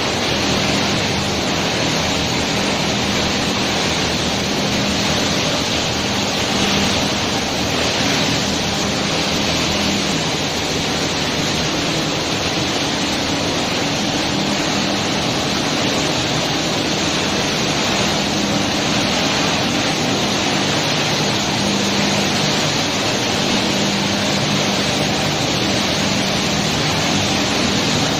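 PET bottle crushing and washing line running: a steady, dense hiss of machinery and water with a low hum underneath that fades in and out.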